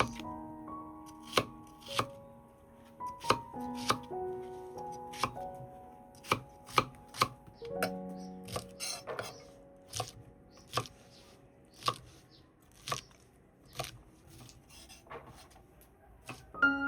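Knife chopping on a cutting board: single unhurried strikes, roughly one a second at an uneven pace. Soft background music plays underneath.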